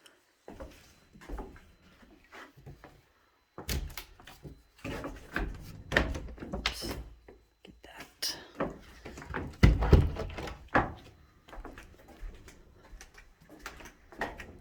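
A run of irregular knocks and thumps with some rustling between them, the loudest about ten seconds in.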